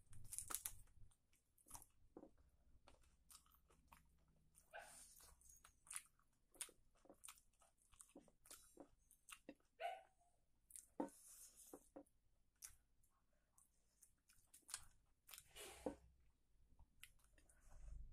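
Close-up eating sounds: a chicken leg piece being bitten and chewed off the bone, with irregular short crunches and clicks and a few longer bursts of chewing.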